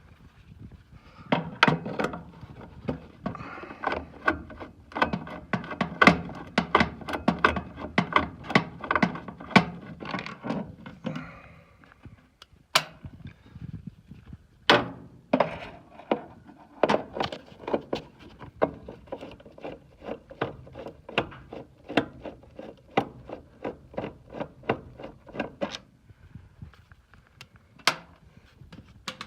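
Hand tools and metal parts clicking and knocking in quick succession as a furnace inducer motor assembly is taken apart, several knocks a second with a short ring after each.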